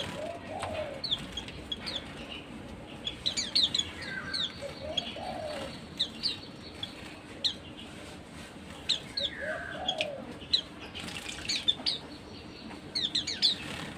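Pleci (white-eye) birds giving many short, high chirps in scattered bunches. A lower call repeats three times under them, about every four and a half seconds.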